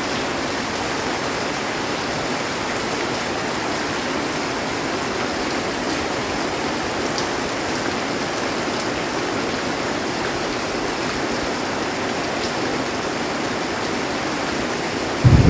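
Heavy rain falling steadily on a metal roof, an even rushing hiss with a few faint drip ticks. Right at the end, a loud low rumble of thunder begins.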